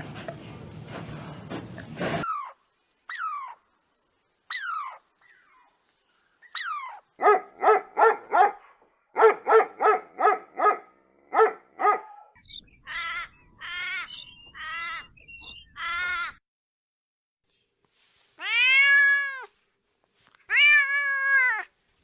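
Cats meowing: after a noisy first couple of seconds come short high mews, a quick run of short calls, and then two long, arched meows near the end.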